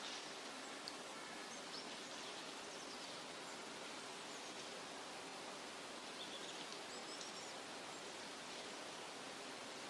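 Forest nature ambience: a steady, even hiss with faint, high bird chirps now and then.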